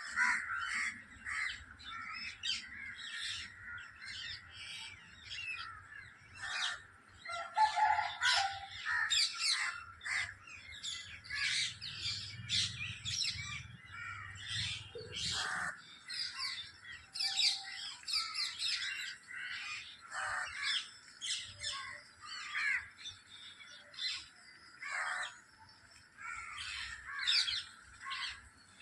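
Flock of parrots calling together: a dense chorus of short, high-pitched squawks and chirps, many overlapping, with no pause.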